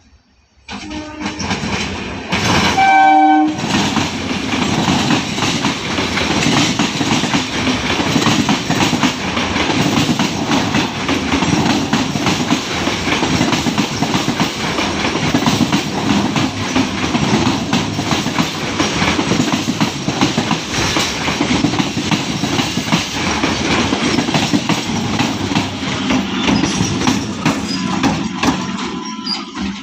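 Indian Railways EMU local train going by: a short horn blast about three seconds in, then the continuous rumble and clatter of wheels on rail, fading near the end.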